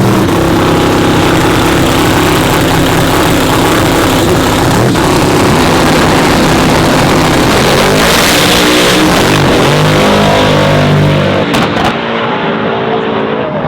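Race pickup trucks' engines at full throttle on a drag run. The pitch climbs near the start, holds loud and steady, swings up and down again around eight to ten seconds in, then drops off about eleven seconds in.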